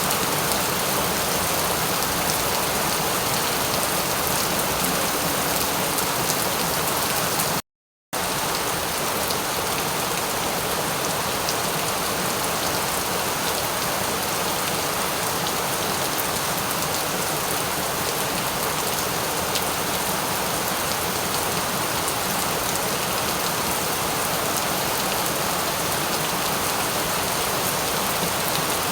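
Steady rain falling, a dense even hiss with faint scattered drop ticks. It cuts out to silence for about half a second around eight seconds in.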